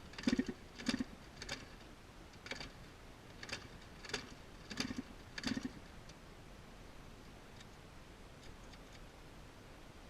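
A series of about nine irregular knocks, each a dull thud with a sharp click, over the first six seconds, then a few faint ticks.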